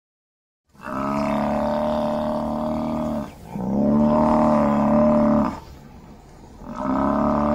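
African buffalo bellowing: three long, low calls of two to three seconds each, with short pauses between them, the third starting near the end.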